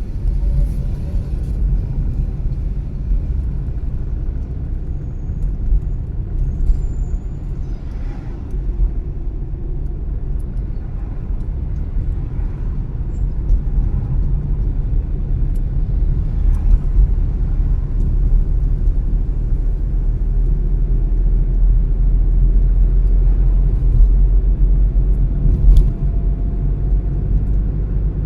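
Car driving along, with a steady low rumble of road and engine noise that swells slightly in the second half.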